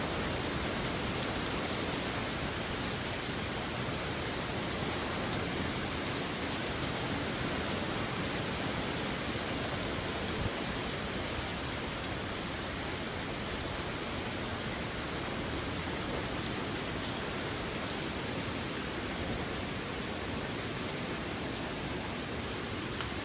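Steady rain pouring down during a thunderstorm, an even hiss that holds constant throughout.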